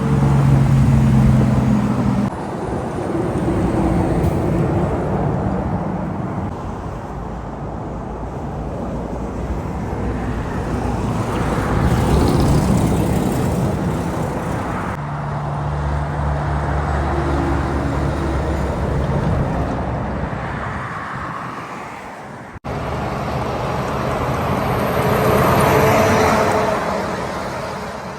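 Heavy trucks driving past on a road, their engine note and tyre noise rising and falling as each goes by. The sound breaks off abruptly about two-thirds through, then another truck's pass builds up.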